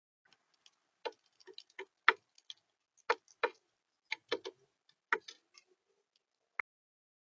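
Feeding at the bird feeder: a string of irregular sharp taps and clicks, about a dozen over six seconds, of the kind a beak pecking at seed on the feeder makes right at the camera.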